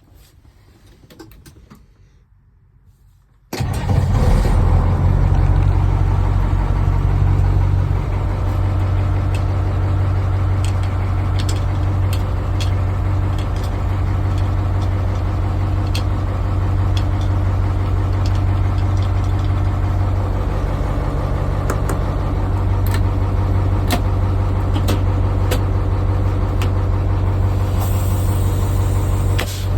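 International truck engine starting about three and a half seconds in and then idling steadily with a deep, even drone. Near the end a short hiss of air is heard, typical of the truck's air brake system.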